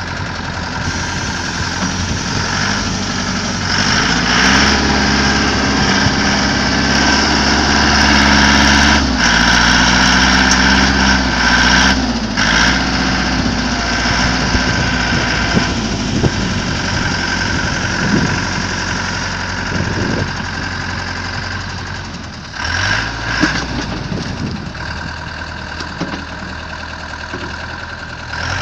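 Foton Lovol 504 tractor's diesel engine running steadily. Its speed picks up about four seconds in, holds, and settles back after about nine seconds, with a short rise again near the end.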